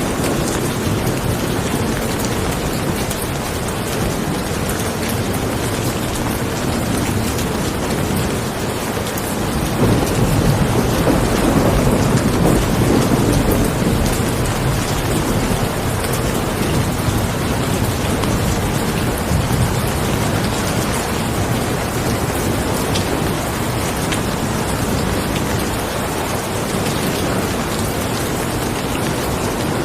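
Steady heavy rain falling, with a low rumble of thunder swelling about ten seconds in and fading over several seconds.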